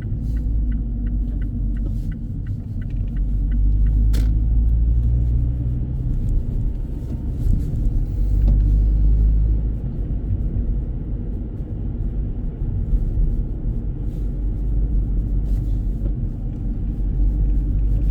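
Low road and engine rumble inside a moving car's cabin, swelling and easing, with a run of light, evenly spaced ticks in the first two seconds.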